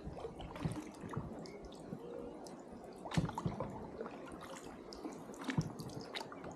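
Water dripping and splashing in small, irregular splashes, with two louder splashes, one about three seconds in and one about two seconds later.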